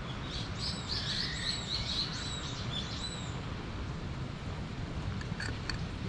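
A songbird sings a quick run of high chirps lasting about three seconds, over a steady low outdoor rumble. A few faint short ticks follow near the end.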